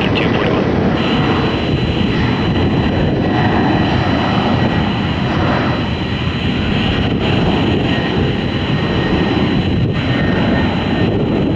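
Boeing 767 jet engines on a landing approach: a loud, steady rumble with a thin high whine over it.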